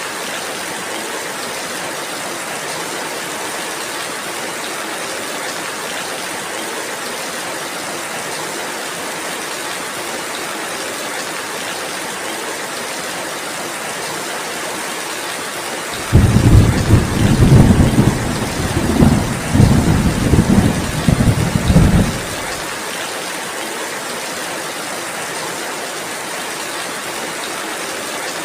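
Steady rainfall hissing throughout, broken about halfway through by a sudden loud, low rumble of thunder that rolls on for about six seconds and then stops.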